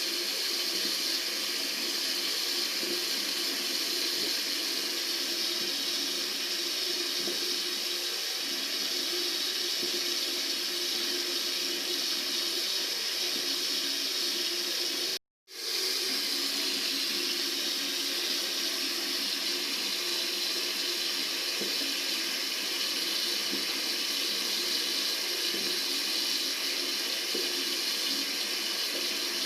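Tap water running steadily from a faucet into a sink, an even rushing hiss. It cuts out completely for about half a second midway, then resumes unchanged.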